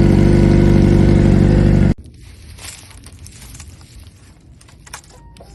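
Motorcycle engine running loud and steady, stopping abruptly about two seconds in. After that come faint scattered clicks and knocks.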